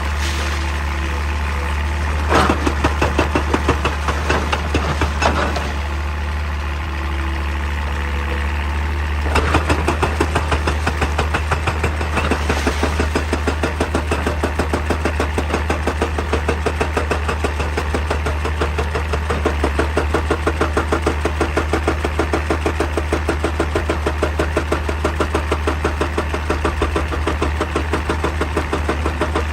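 Excavator's diesel engine running under a rapid, even pounding, typical of a hydraulic breaker hammer striking rock. The pounding starts about two seconds in, eases for a few seconds, then goes on steadily.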